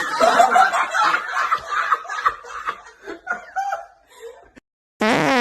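A person laughing, snickering and chuckling in choppy bursts that trail off about four and a half seconds in. Music starts suddenly just before the end.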